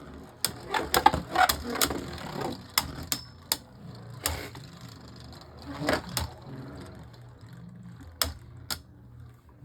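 Two Beyblade Burst tops, Harmony Pegasus and Lord Hydrax, spinning against each other in a stadium, clashing with repeated sharp clicks and knocks over a steady low whir. The hits come thick in the first few seconds, then fewer and farther apart.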